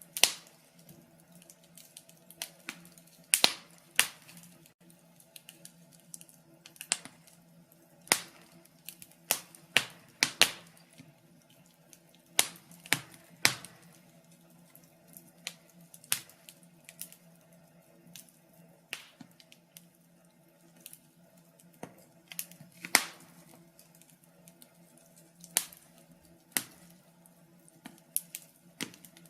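Wood fire crackling in a fireplace: sharp pops and snaps at irregular intervals, some much louder than others, over a faint steady low hum.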